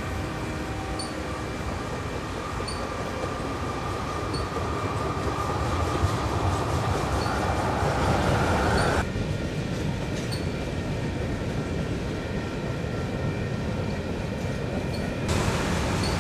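Freight train of tank cars rolling past: a steady rumble of steel wheels on the rails, with a thin, high wheel squeal running over it. The sound changes abruptly about nine seconds in and again near the end.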